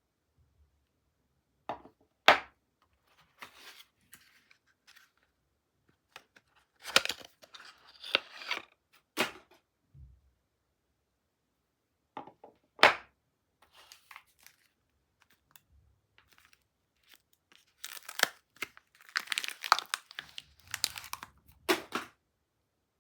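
Soap bars being unwrapped by hand: bursts of packaging crinkling and tearing with quiet pauses between. Twice comes a short sharp snap, and near the end there is a longer run of steady crinkling.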